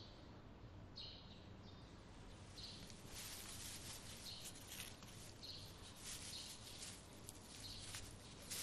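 Near silence: faint high bird chirps now and then, about one a second, with soft rustling from about three seconds in.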